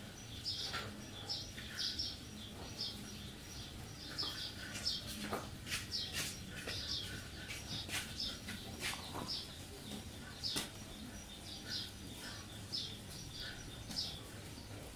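A bird chirping in short, high notes repeated about once or twice a second, with a few sharp clicks among them.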